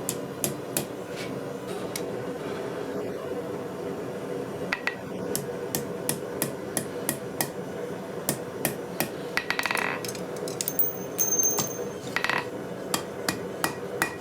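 Hand hammer striking hot 1/4-inch steel round bar on an anvil, tapering the ends flat. Sharp ringing blows come at about two a second, with a pause of about two seconds early on, over a steady hum.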